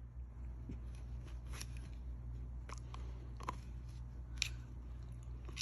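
Mini pit bull chewing and gnawing on something held in her mouth: faint, scattered crunches and clicks, about four of them.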